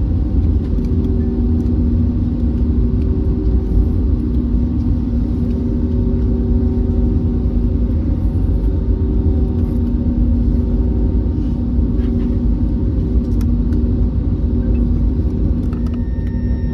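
Cabin noise inside an Airbus A321neo taxiing after landing: a loud, steady low rumble with a constant hum. Near the end, a few thin high steady tones come in.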